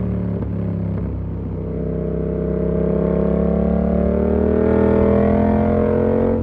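Yamaha MT-07's 689 cc parallel-twin engine through an SC Project slip-on exhaust with its dB-killer fitted, running under way. The pitch sags a little at first, then rises steadily through the rest as the bike accelerates in one gear.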